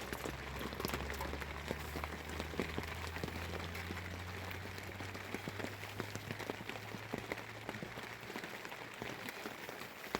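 A dense, steady patter of many small crackles and ticks, with a low hum underneath that fades out about halfway through.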